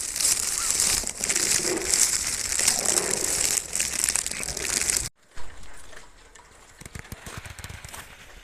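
Pigeons cooing over a steady hiss. About five seconds in, the sound cuts off abruptly and gives way to quieter outdoor sound with light clicks.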